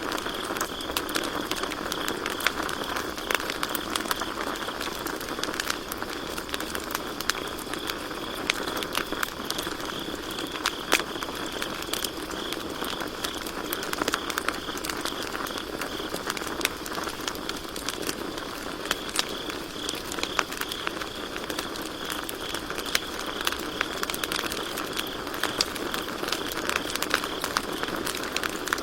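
Campfire crackling, with frequent sharp pops and snaps scattered irregularly throughout, over a steady high chirring of crickets.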